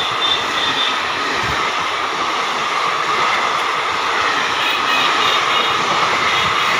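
Passenger coaches of an Indian Railways express train passing at speed: a steady, loud rush of steel wheels on rail, with a faint high squeal about two thirds of the way through.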